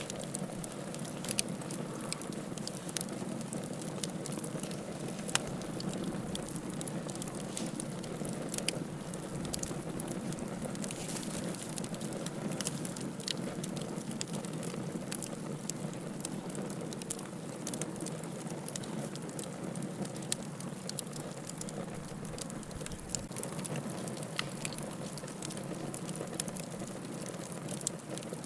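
Wood fire burning with a steady low rush and frequent scattered sharp crackles and pops.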